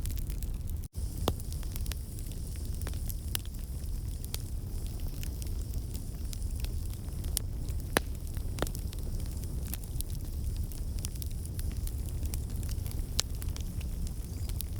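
Wood fire crackling in a fireplace: a steady low rumble with scattered sharp pops and snaps, a few louder than the rest. The sound cuts out for an instant about a second in.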